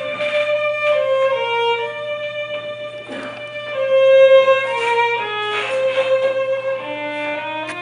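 Solo violin playing a slow melody of held, stepping notes.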